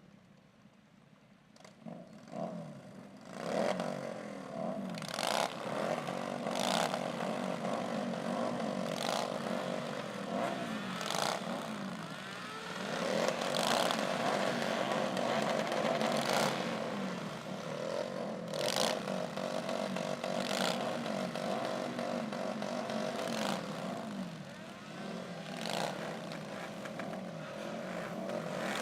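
A procession of motorcycles riding past, several engines overlapping and revving repeatedly, starting about two seconds in.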